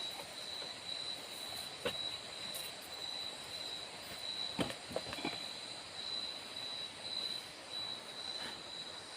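A steady high-pitched insect drone, the kind made by crickets in a tropical forest, over a soft even hiss, with a few sharp clicks or knocks about two seconds in and near the middle.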